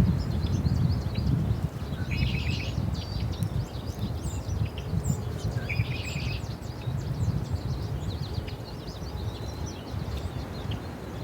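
Small birds chirping and twittering, with two louder buzzy calls, about two seconds in and again about six seconds in, over an uneven low rumble that slowly fades.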